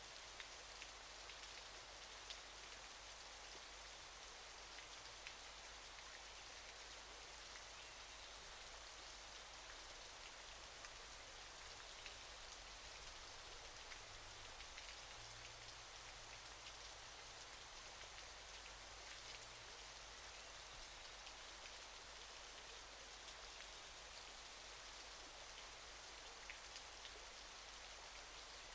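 Faint, steady hiss of falling water with a fine patter of small drops, mostly high with little low rumble.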